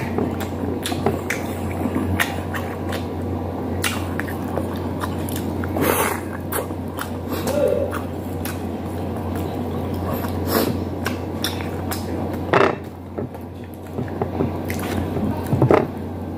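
Close-miked chewing and wet mouth sounds of a man eating chicken and rice with his hands, with frequent smacking clicks and a few louder wet smacks. A steady low hum runs underneath.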